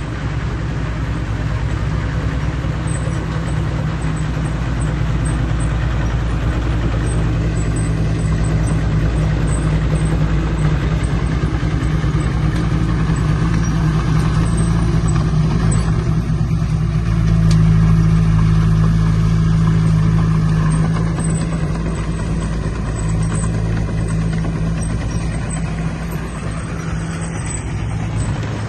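Heavy earthmoving machine's diesel engine running steadily with a deep, low drone. It grows louder for a few seconds about two-thirds of the way through.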